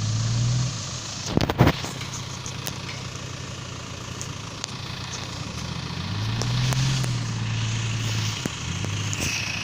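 Car engine revving up twice, briefly at the start and again for about two seconds from six seconds in, as the car tries to pull out of mud with its tyres slipping. A sharp knock about a second and a half in.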